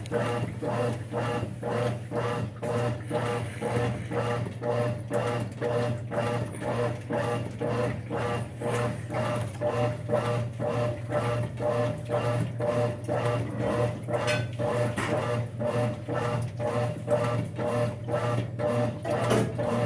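Brastemp 5 kg top-loading washing machine agitating: the agitator swishes the load back and forth about twice a second over a steady motor hum.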